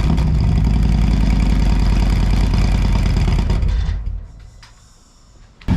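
Harley-Davidson Road Glide's Milwaukee-Eight 107 V-twin with a Bassani Road Rage III 2-into-1 exhaust and a Wood cam, running at a steady idle with a deep, loping exhaust note. About four seconds in the sound falls away to a faint low rumble, and the engine sound returns suddenly just before the end.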